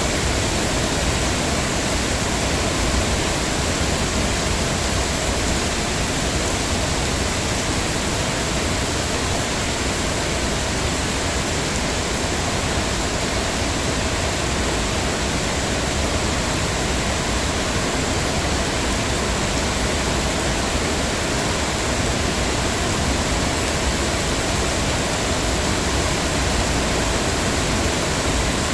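Heavy rain falling steadily, an even, unbroken hiss with no separate drops or other events standing out.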